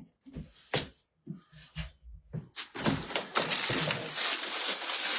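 Rummaging through packaging: a few short knocks and clicks as things are handled, then from about halfway a steady rustle of wrapping or cardboard.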